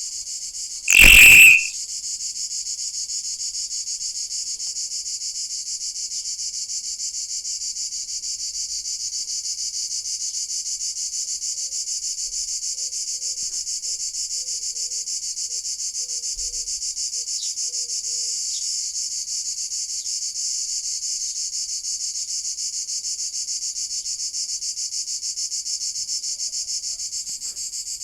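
Cicada singing: a steady, high, finely pulsed buzz that carries on without a break. About a second in there is one short, much louder burst of sound.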